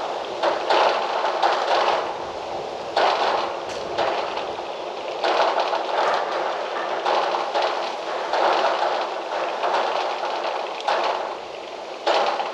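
Wind gusting through trees, a rushing rustle that swells and eases every second or two.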